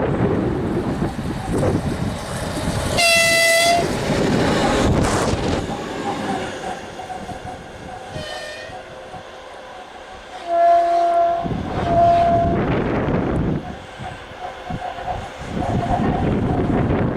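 2TE116 twin-section diesel locomotive running past with a heavy rumble of engines and wheels, sounding its horn four times: a short blast about three seconds in, a fainter one later, then two loud blasts close together near the middle.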